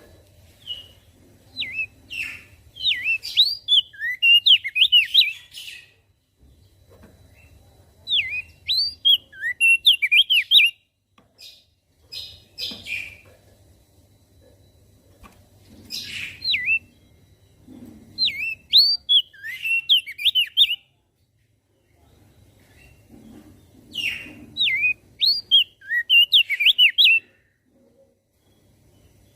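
Crested dark-eye (opior jambul) singing: bursts of quick, sweeping high chirping notes in phrases a few seconds long, repeated about four times with short pauses between.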